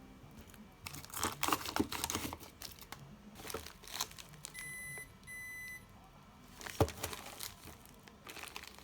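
Plastic containers and packaging handled and set down, with crinkling and scattered clicks and taps. An appliance gives two short electronic beeps about halfway through.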